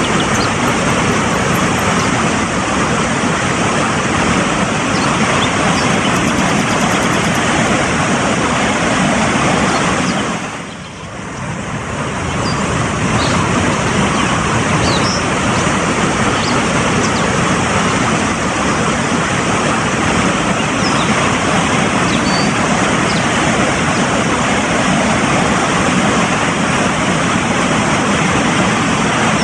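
Fast-flowing mountain stream rushing steadily, dipping briefly in loudness about eleven seconds in. A few faint short high chirps sound over the water.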